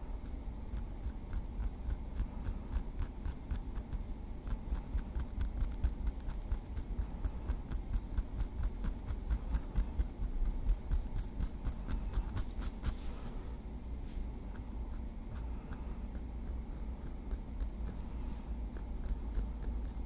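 Light, quick tapping and clicking of a small wooden stick, several irregular ticks a second, thinning out after about 13 seconds, over a steady low hum.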